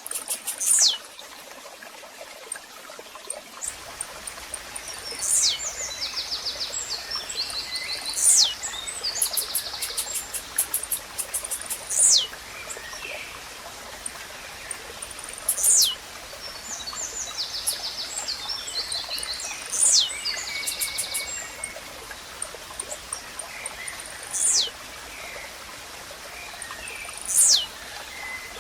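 Blue-black grassquit (tizil) singing its short, sharp call, a quick downward sweep repeated about every three to four seconds, eight times. Other small birds trill and chip between the calls over a steady hiss of running water.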